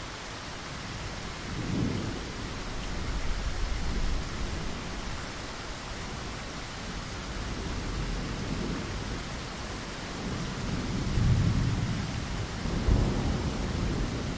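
Steady heavy rain hissing, with rolling thunder rumbling low several times, loudest near the end.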